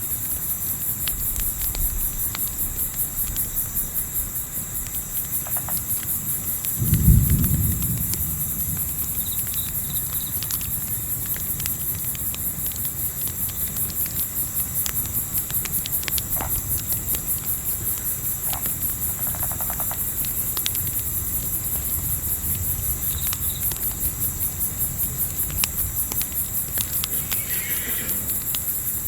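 Crickets chirping in a steady, fast-pulsing high trill, over scattered sharp crackles from a campfire and a low rumble of wind. A single low thump about seven seconds in is the loudest sound.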